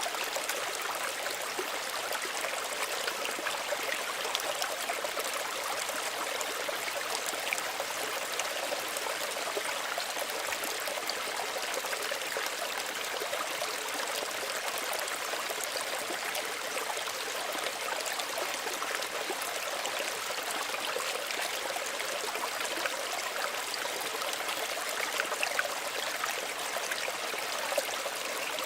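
Small stream running steadily, a continuous babble of water with fine trickling and splashing over stones.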